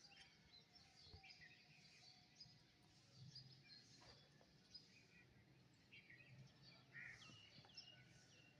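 Several small birds chirping and singing faintly, with many short high calls overlapping at irregular intervals over a faint steady low hum.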